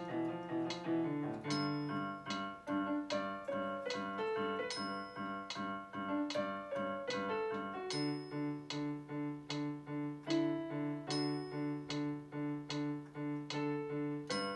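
Piano playing a slow song: a melody over evenly repeated chord notes, about two strikes a second.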